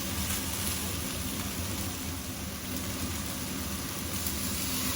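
Eggplant frying in a wok, a steady hiss over a low, even hum.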